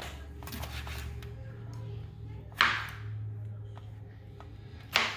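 Kitchen utensil handling: two short, sharp scraping or chopping sounds, about two and a half seconds apart, with a few faint ticks over a low steady hum.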